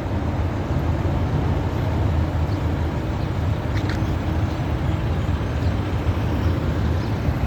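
Mack cement truck's diesel engine idling, a steady low rumble.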